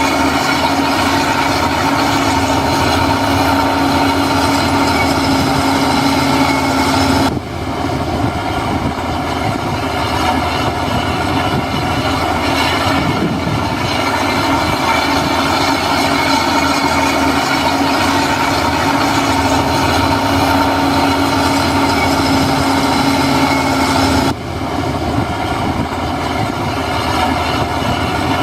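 Diesel engine of heavy earthmoving machinery running steadily under load. The sound changes abruptly twice, about seven seconds in and again near the end.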